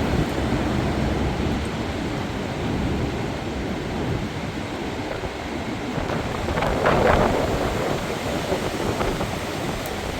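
Storm-force wind roaring and buffeting the microphone in steady, heavy noise, with a louder, brighter gust surge about seven seconds in.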